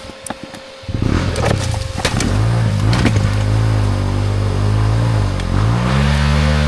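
A dirt bike's engine starts suddenly about a second in and is revved, its pitch rising and falling. It drops back briefly near the end, then is revved up again.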